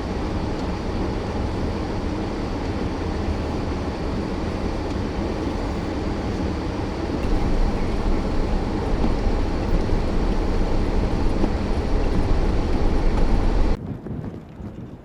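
Storm wind gusting across the microphone in a blizzard: a loud, continuous rushing roar with heavy low rumble, swelling louder about halfway through, then cutting off abruptly near the end.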